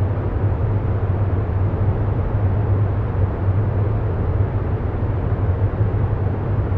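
Steady, low rumbling background noise that stays unchanged throughout, with most of its weight in a deep bass hum.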